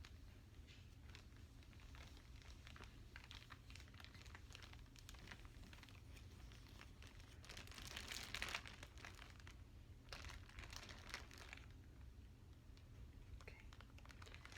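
Plastic packaging crinkling and crackling as it is handled, in scattered soft crackles with two denser bursts about halfway through.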